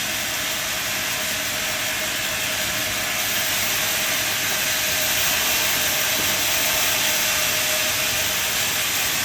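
Sawmill saw running steadily through a log, a continuous hiss with a steady whine.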